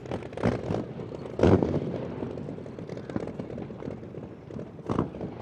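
BABS's 27-litre V12 engine running roughly, with irregular sharp pops about half a second in, at about a second and a half, and again near the end.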